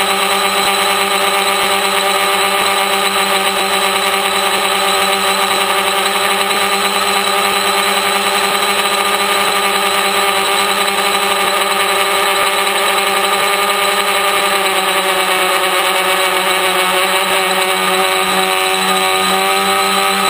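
Brushless motors and propellers of a home-built T-copter (tricopter) running in flight, a steady multi-tone whine with the rush of the props; the pitch shifts up and down a little in the last few seconds as the motor speeds change.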